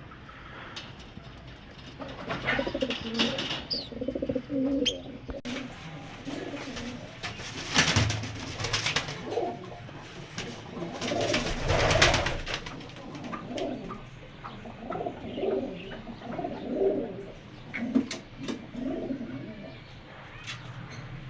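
Pigeons cooing: repeated low coos throughout. Two louder rustling bursts come about eight and twelve seconds in.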